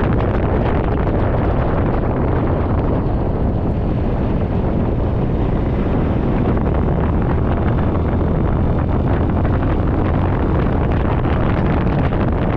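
Steady wind rushing over the microphone of a moving Suzuki Burgman 400 scooter, with the scooter's single-cylinder engine running underneath.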